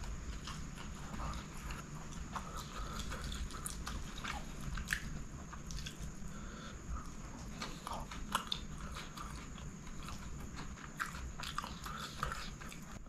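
Close-miked chewing of chicken kottu roti, with many short wet mouth smacks and clicks, and fingers squishing and picking through the pile of kottu on the plate.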